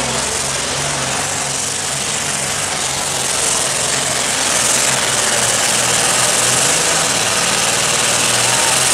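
Heavy diesel pulling engine running hard, a loud steady engine noise with a strong hiss, growing a little louder about halfway through.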